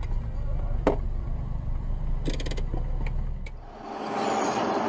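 Low rumble of a car driving, with a few sharp clicks. About three and a half seconds in it gives way abruptly to a steady hiss.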